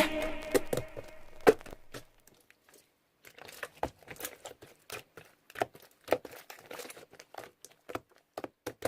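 Slime being squished and stretched by hand, making irregular small clicks and crackling pops.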